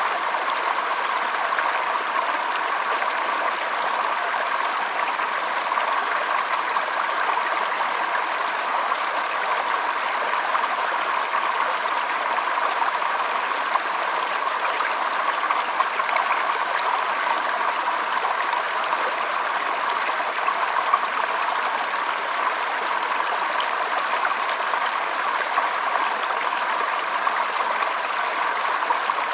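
Shallow stream trickling and flowing over stones, a steady even rush of water.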